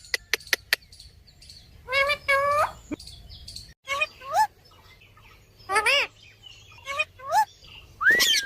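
Pet parrot calling: short pitched calls that sweep up or down, mostly in pairs a few seconds apart, with the loudest call near the end. A few sharp clicks come right at the start.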